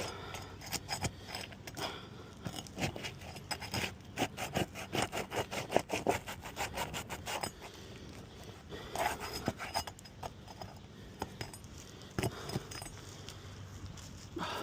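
A hand tool scraping and prying under asphalt roof shingles to break their sealant strip, in a run of quick repeated scraping strokes through the middle, with scattered shorter scrapes and clicks later.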